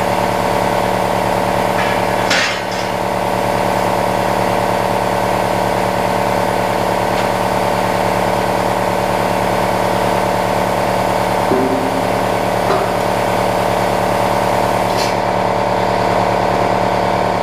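Plasma cutter cutting steel plate: a loud, steady buzzing hum, broken by a brief dip and a sharp click about two and a half seconds in.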